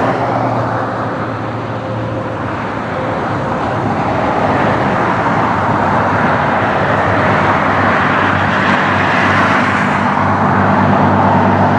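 Jet engines of a Boeing 767-300ER airliner running with a loud, steady roar and a low hum beneath. The roar dips slightly a couple of seconds in, then builds again.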